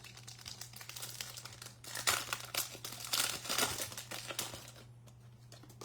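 Plastic-foil trading card pack wrapper being torn open and crinkled, loudest about two seconds in and again around three to four seconds.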